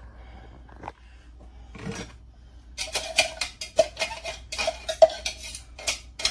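Utensil scraping and knocking against dishes as chopped carrots are moved into a skillet: one faint scrape, then from about three seconds in a quick run of clattering taps and scrapes, some with a short metallic ring.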